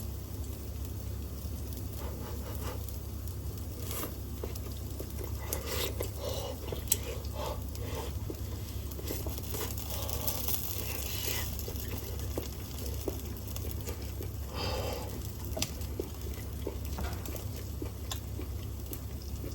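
Steady low hum of a kitchen ventilation fan, with scattered light clicks, scrapes and crinkling of things being handled, most of them in the middle stretch.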